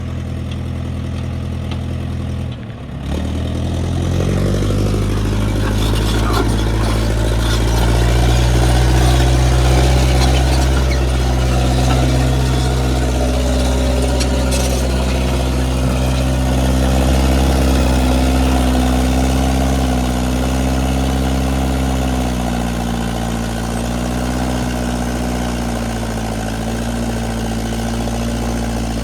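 International 125 crawler loader's engine running; about three seconds in it dips briefly, then revs up and holds at working speed as the loader is put to work, its pitch sagging and recovering a little near the end.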